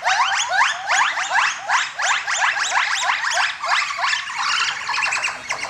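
Langurs calling: a fast run of short rising calls, about five a second, that goes on without a break.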